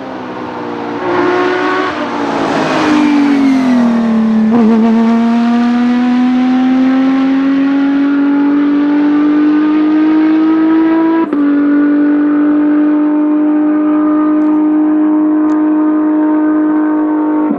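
Flat-six engine and exhaust of a Porsche 997 GT3 rally car running loud. Its note rises and then drops over the first few seconds, climbs slowly, breaks off sharply for a moment about eleven seconds in, and then holds a steady pitch.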